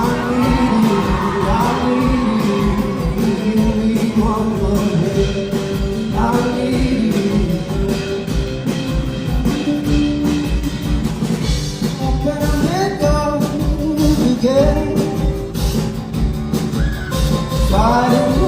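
A song: a male singer's voice gliding through long, wordless-sounding lines over a band with a steady drum beat.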